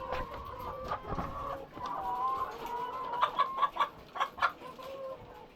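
A flock of chickens in a poultry house clucking and calling, with drawn-out wavering calls and a quick run of short, sharp sounds about three seconds in.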